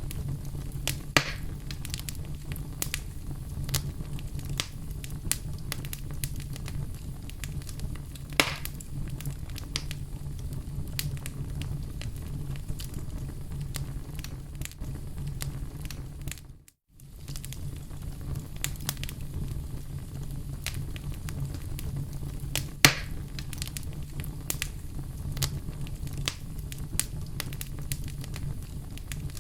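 Wood fire burning in a fireplace: a steady low rumble of flames with frequent small crackles and a few louder pops, about a second in, around eight seconds and near twenty-three seconds. The sound cuts out for a moment just past the middle.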